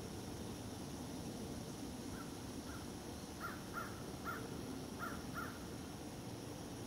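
A bird calling outdoors: a run of about seven short, harsh calls, the first faint, starting about two seconds in and ending after about five and a half seconds, over a steady hiss.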